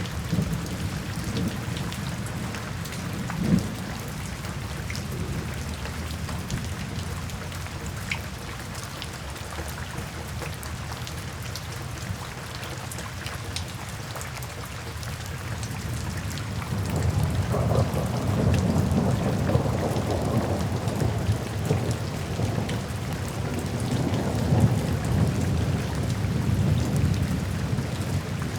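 Steady rain falling, with soft thunder rumbling low in the background that swells about two-thirds of the way through and keeps rolling to the end.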